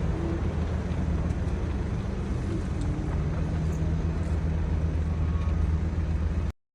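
A steady, low engine or motor running drone that cuts off suddenly near the end.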